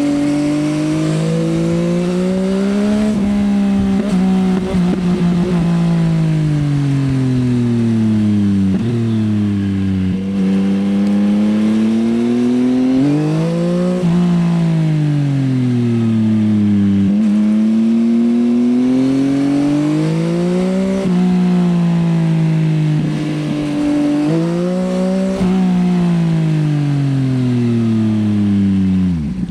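Yamaha XSR900's CP3 inline-three engine through an Akrapovič Racing Line exhaust, on the move: the note climbs under throttle, drops abruptly at gear changes and sinks as the bike slows, over and over. A few short crackles come from the exhaust, and the note falls steeply right at the end.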